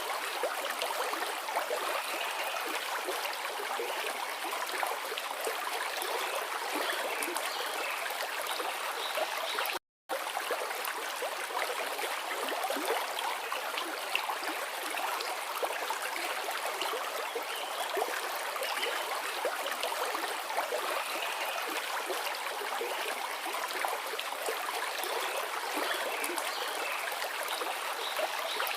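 Forest river flowing: a steady rush of running water, cut by a brief gap of silence about ten seconds in.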